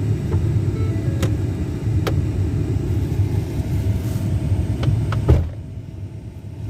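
Car engine and tyres rumbling steadily as the car reverses slowly into a parking spot, with a few faint clicks and one thump about five seconds in, after which the rumble drops quieter.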